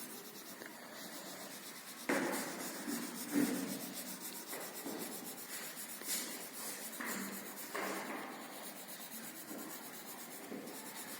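A colour being rubbed onto paper: quiet scratchy strokes scrubbed back and forth in irregular spells, starting about two seconds in.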